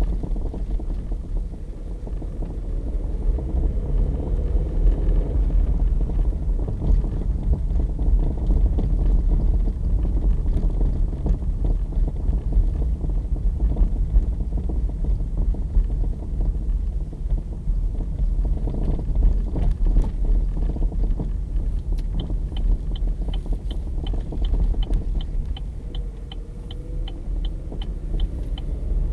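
Opel Astra J driving, with a steady low road rumble and irregular knocks from the suspension, the knocking fault the car is being recorded for. Near the end a regular light ticking, about three a second, runs alongside.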